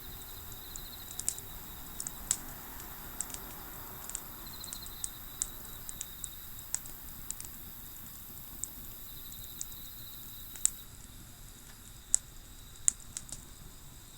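Wood fire crackling: irregular sharp pops and snaps from burning wood, a few of them louder near the end.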